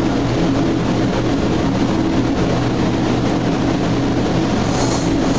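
Steady mechanical hum with a low drone, level throughout and loud enough to mask the knife work.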